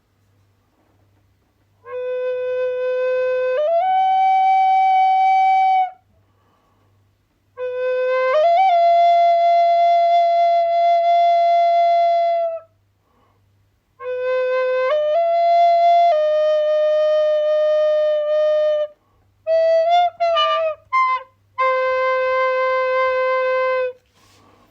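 A flute-like wind instrument playing a slow melody of long held notes. Each of the first three phrases steps up from a low note to a higher one and holds it, with a pause between phrases. Near the end comes a quick run of short notes, then one long low note.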